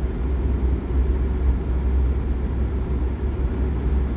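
Steady low rumble of a car driving along a winter road: road and engine noise with no distinct events.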